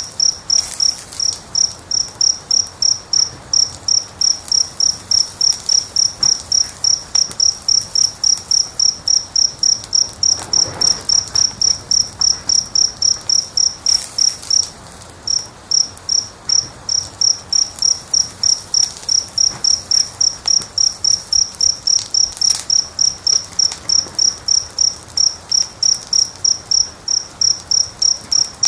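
A cricket chirping steadily, about three high chirps a second, with a brief pause about halfway through. A few faint pops from a crackling wood fire come through underneath.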